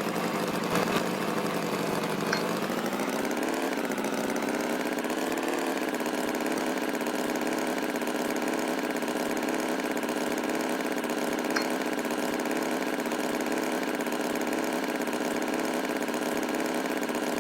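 Tractor engine sound effect running steadily, its pitch dipping about two seconds in and rising back by about four seconds, then holding even.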